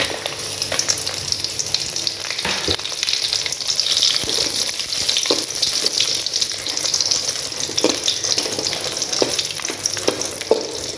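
Dried red chillies sizzling in hot oil in a metal pan, with a metal ladle scraping and knocking against the pan every second or so as they are stirred.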